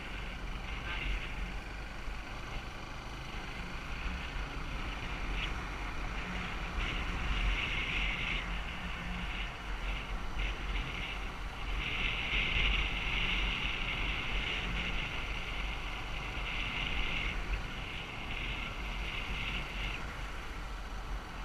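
Wind rumbling on the microphone, with a high buzzing that swells and fades in stretches of a few seconds.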